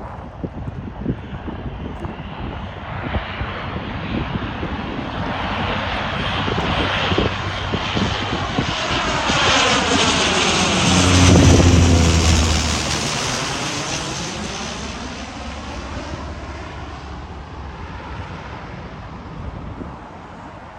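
Aircraft engine noise of an airliner passing close by: it swells steadily, peaks a little past halfway with a brief low hum, then fades away as the plane moves off.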